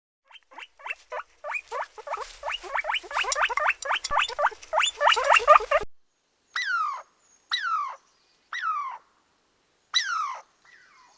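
Animal calls: a rapid run of short, high-pitched pitched calls, several a second, for about the first six seconds. Then, after a pause, four separate calls that each slide down in pitch, about one a second.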